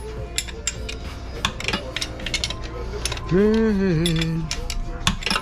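Metal hardware clinking and rattling in a string of sharp clicks as it is handled on the engine hoist rigging. About three and a half seconds in comes a brief pitched tone that rises and then falls, lasting about a second.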